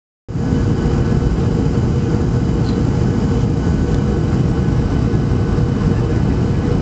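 Steady roar of engines and airflow inside a jet airliner's cabin on approach for landing, heaviest in the low range.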